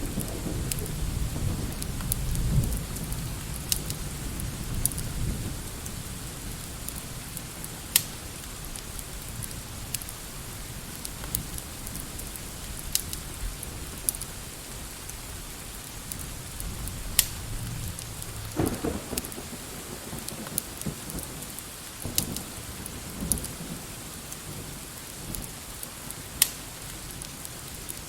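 Steady rain with low rolling thunder that fades over the first few seconds and rumbles again briefly about two-thirds in, over sharp scattered pops of a crackling fireplace.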